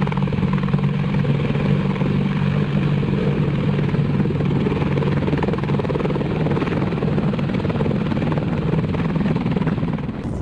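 AH-64 Apache helicopter's rotors and turbine engines running steadily. A strong low drone in the mix fades out about halfway through.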